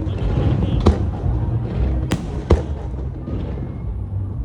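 Fireworks going off: three sharp bangs of bursting shells, about one, two and two and a half seconds in, over a steady low rumble.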